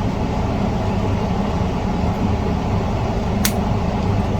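A single sharp snip about three and a half seconds in, as flush cutters clip a pin lead on the ClearVideo128 board, over a steady low background hum.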